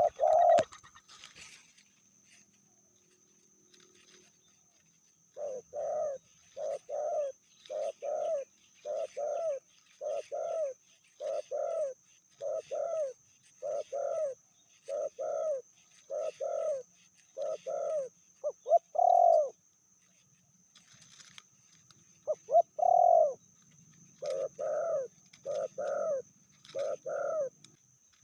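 Spotted dove cooing: a quick string of short, evenly spaced coos, about one every 0.7 s, ending on a longer coo; after a pause of a few seconds, one more long coo and four short ones. A steady high insect whine, like a cricket, runs underneath.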